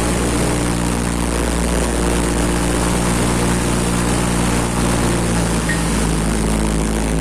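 Propeller engine of a firefighting aircraft droning steadily, one even, unchanging engine tone over a wide rushing noise.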